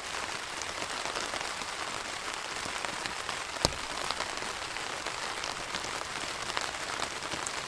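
Heavy rain falling on a Cuben fiber (Dyneema) tarp overhead: a steady hiss of rain flecked with the ticks of single drops, with one louder drop hitting about three and a half seconds in.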